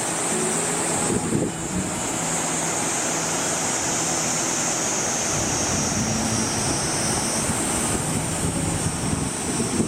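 Waterfall's falling water rushing steadily, a constant even noise with no break.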